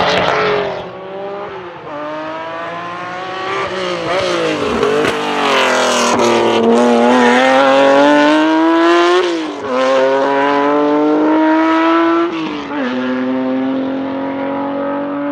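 Honda NSX race car's 3.5-litre stroked C30A VTEC V6 with straight-pipe exhaust, driven hard on track. Its pitch climbs under throttle and drops sharply at gear changes several times.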